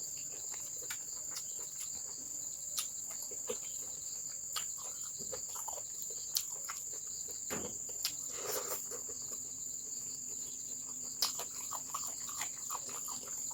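Steady high-pitched insect chirring in the background, with scattered faint clicks and soft taps.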